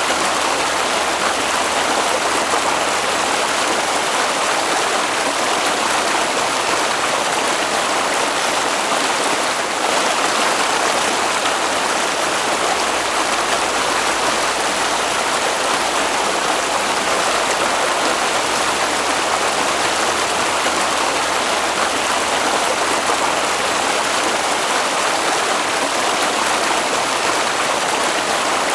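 Water flowing in a stream: a steady, even rushing.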